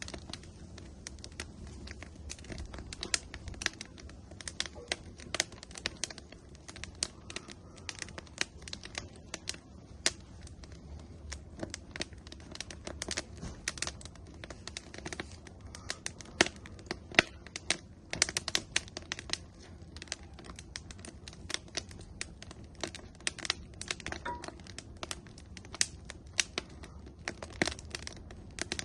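Wood fire burning in an outdoor grill, crackling with many irregular sharp pops and snaps over a low steady rumble of the flames.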